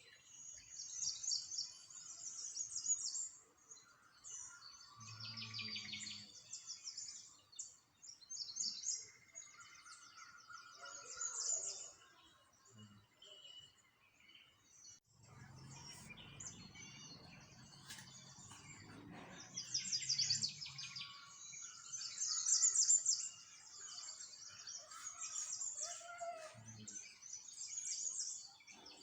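A chorus of small songbirds chirping and twittering, with many quick, high calls and trills overlapping throughout. A low rumble comes in about halfway through and lasts several seconds.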